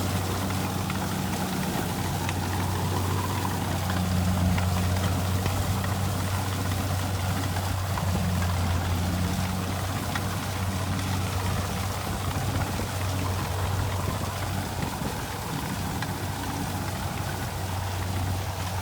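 Kubota combine harvester's diesel engine running steadily, a constant low drone with a fainter higher hum that comes and goes.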